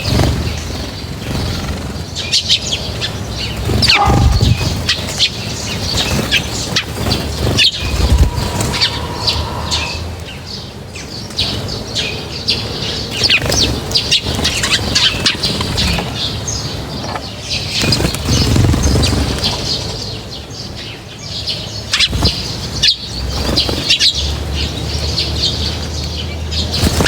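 Many birds chirping busily at a feeding spot, with bursts of wing flapping as birds fly in and out.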